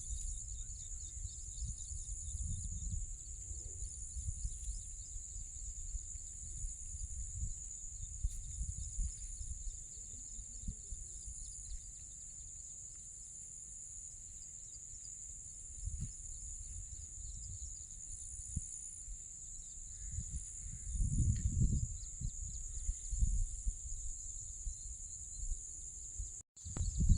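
Steady high-pitched insect chorus, with wind rumbling on the microphone underneath, heavier a little before the end.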